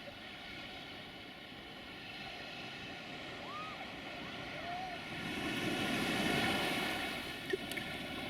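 DART electric commuter train passing, its rush of wheels and track noise swelling over about two seconds in the second half and then easing, against wind and a steady faint hum.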